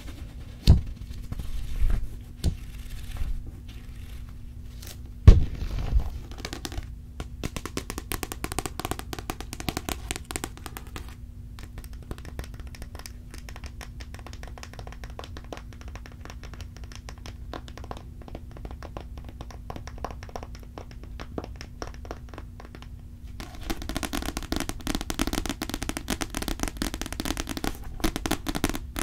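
Close-miked ASMR sounds: dense, rapid clicks and crackles, with a few low thumps in the first six seconds, the loudest about five seconds in, over a faint steady hum. The crackling grows busier near the end.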